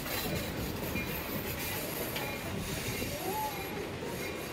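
Steady running noise of a passenger train car riding along the track, heard from aboard, with a brief faint tone that rises and falls a little past three seconds in.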